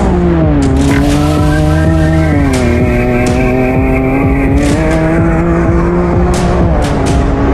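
Side-by-side UTV engine running hard, its pitch holding fairly steady and easing down about two and a half seconds in and again near the end, with scattered sharp clicks.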